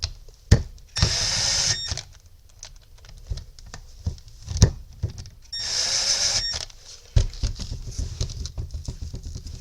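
Power driver running in two short bursts of just under a second each, driving T25 Torx screws into a sander's backing pad, with sharp clicks and knocks of the screws and parts being handled in between.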